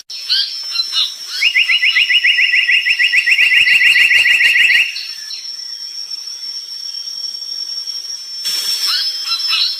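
Brown tali pocong songbird singing: a few short high chirps, then a rapid, even trill lasting about three seconds that starts again near the end, over a steady high-pitched whine.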